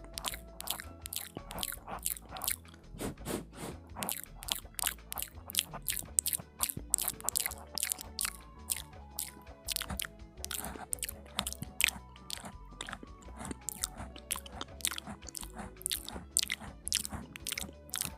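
ASMR mouth sounds close to the microphone: a quick run of wet clicks and smacks, several a second, over soft background music.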